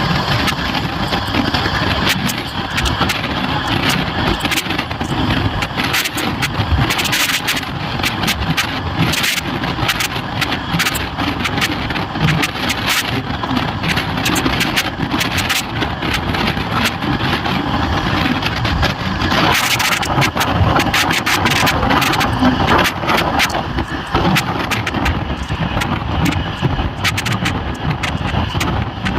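Indian Railways train running: a steady rumble with frequent irregular clattering and rattling.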